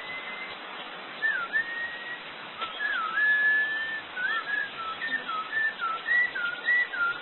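A person and a zoo bird trading clear whistled notes. First come a few whistles that dip and then hold a long steady tone, then about halfway through a quicker run of short up-and-down notes.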